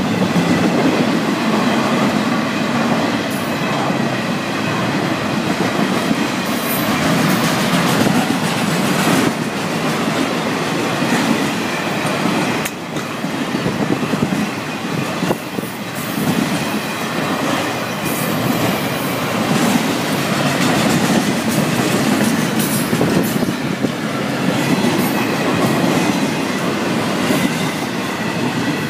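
Intermodal freight train's cars, double-stack containers and trailers on flatcars, rolling steadily past, with the continuous rumble and clatter of steel wheels on the rails.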